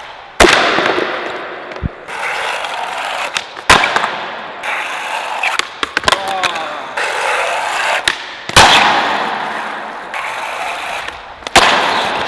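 A skateboard riding on bare ball bearings instead of wheels, slapping down hard on the ground four times. Each landing is followed by a loud rolling noise from the steel bearings on the pavement that fades away, with smaller clicks and knocks in between.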